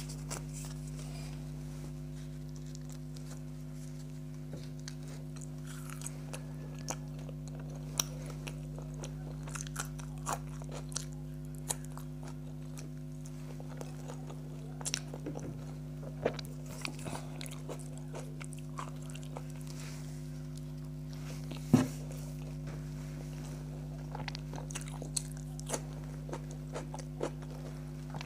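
Close-up eating sounds: biting and chewing food, with irregular small clicks and smacks from the mouth. A steady low hum runs underneath.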